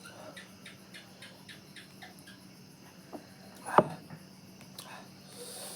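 Eating at close range: a run of soft, rhythmic chewing about four or five bites a second, then a single sharp knock, like a utensil or dish set down, a little under four seconds in.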